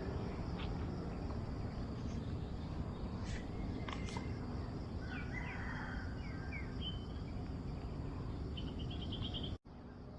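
Outdoor ambience: a steady low rumbling noise with several short bird chirps and calls over it, and a couple of faint clicks. The sound cuts out abruptly near the end.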